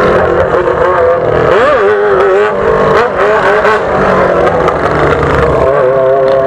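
Yamaha XJ6's inline-four engine with a straight-through open exhaust pipe, running loud under throttle while riding. Its pitch rises and falls with the throttle, with a quick rev blip about a second and a half in.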